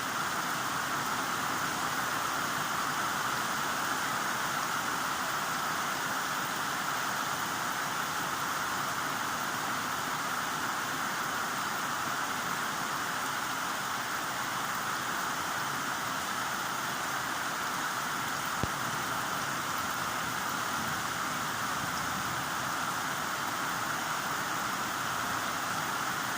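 Heavy rain falling in a steady, even hiss with no let-up, with one small tick about two-thirds of the way through.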